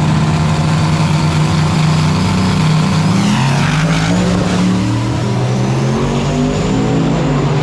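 Vehicle engines running nearby, pitch rising and falling as they rev, with the most change in the middle.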